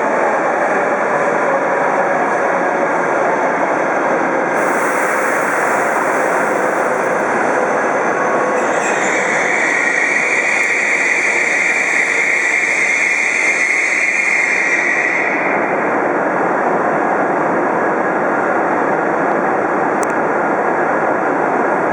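Hokuriku Shinkansen E7/W7-series train pulling into a station and slowing to a stop. Its whine falls in pitch over the first several seconds. A high squeal holds for several seconds in the middle, over steady running noise.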